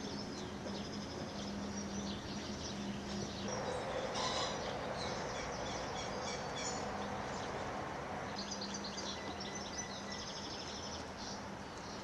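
Birds chirping in a few bursts of quick, high twittering, over a steady background of noise and a low hum.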